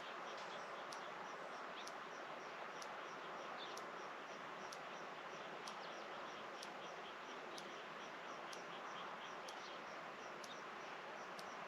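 Outdoor rural evening ambience: a steady background hiss with small high chirps repeating several times a second and a sharp high tick about once a second.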